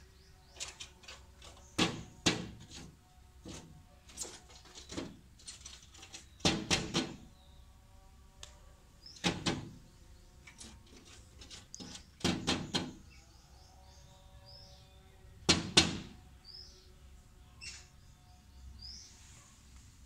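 A woodpecker pecking hard at a mirror, in bursts of a few sharp taps on the glass every few seconds. A few short, high bird chirps come in between the bursts.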